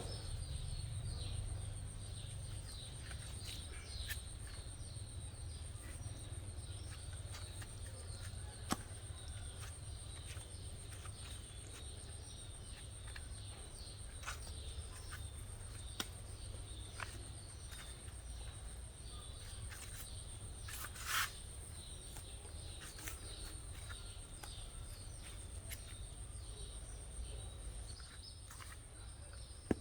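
Faint outdoor ambience: small birds chirping now and then over a steady high-pitched whine and a low rumble, with a few scattered clicks and one louder short clack about two-thirds of the way through.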